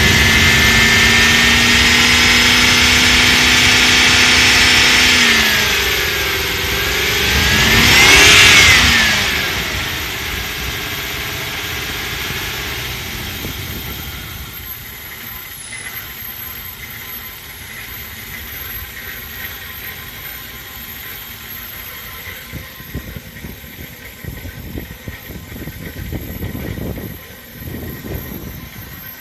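2002 Ford Explorer engine held at raised revs for about five seconds, dropping, revved once more, then settling back down to idle. The idle wavers unevenly in loudness: the rough idle the video is about.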